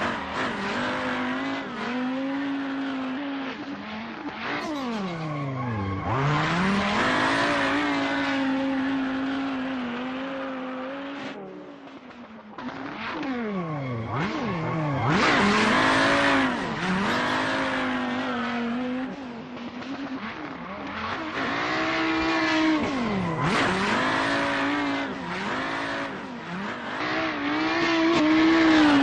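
Swapped-in turbo five-cylinder engine of a Nissan S15 Silvia, its wastegate welded shut, held at high revs through drifts with tires squealing. Three times the revs drop sharply and climb straight back.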